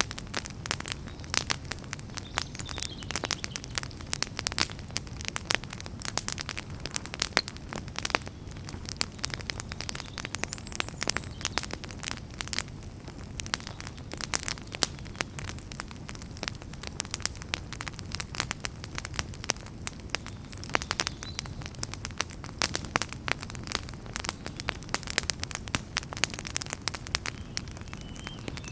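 Wood fire crackling, with many irregular sharp pops and snaps over a steady low rush of burning.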